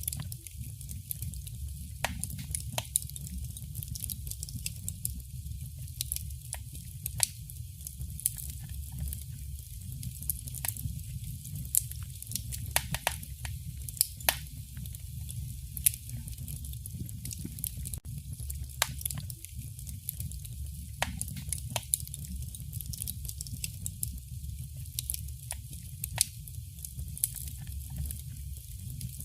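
Wood fire burning in a fireplace: irregular sharp crackles and pops over a steady low rumble of the flames, with a few louder snaps among them.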